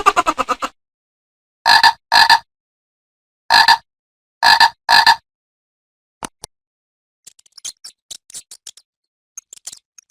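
Novelty sound effects: five short, evenly pitched blips, mostly in pairs, then a single click and a run of faint, quick, high ticks near the end.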